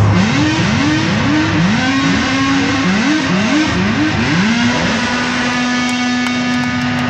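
Amplified electric guitar sliding up into a note about a dozen times in quick succession, then holding one long sustained note.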